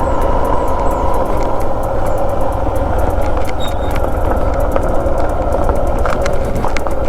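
Motorcycle on the move: steady engine and road noise, heaviest in the low end, with scattered faint clicks.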